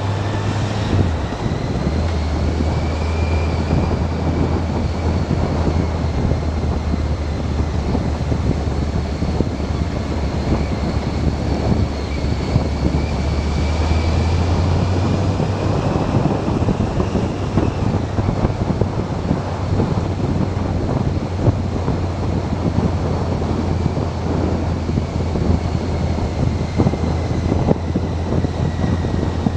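Motorcycle riding at road speed, heard through an onboard camera microphone: a steady low engine drone under heavy wind rush on the mic. The engine note dips briefly about a second in, and a faint whine above slowly rises and falls with speed.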